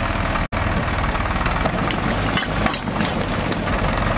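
Tractor engine running steadily with an even low throb, cut by a brief silent break about half a second in.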